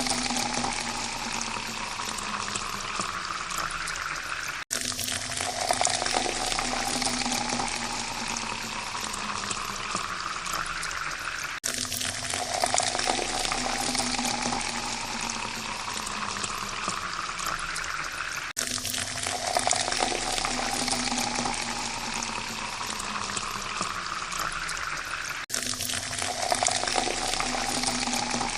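Water pouring into a glass, with a splashing rush and a tone that rises in pitch as the glass fills. The pour repeats about every seven seconds, each one cut off suddenly and starting over.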